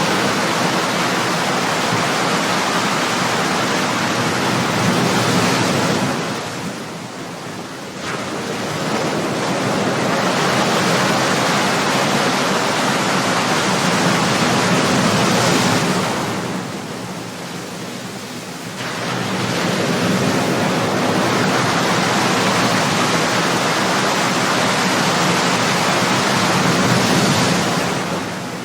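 Ocean surf: waves breaking and washing in a continuous rush of water, easing twice into short lulls between surges.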